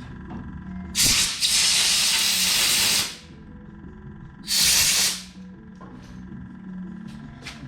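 Aerosol spray can hissing in two bursts, a long one of about two seconds and a shorter one about a second and a half later, spraying cleaner onto the tractor's electrical connectors.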